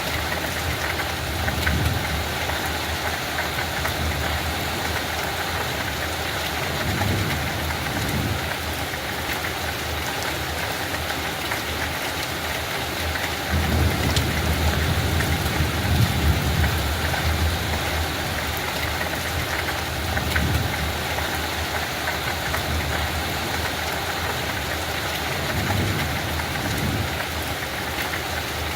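Light rain falling steadily on a field, an even hiss of drops. A deep low rumble swells and fades several times underneath, loudest about halfway through.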